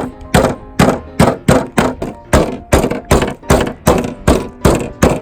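A rapid, even series of sharp thuds or knocks, about three a second, over faint steady tones.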